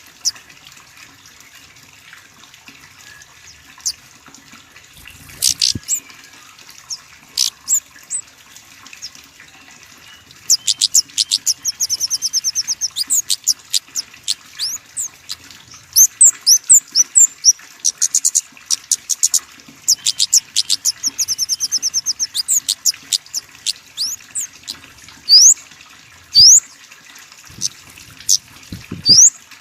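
Small songbird calling: many sharp, high chirps with fast twittering trills and, near the end, quick rising whistled notes. A faint steady hiss lies under it, and there are a couple of low thumps.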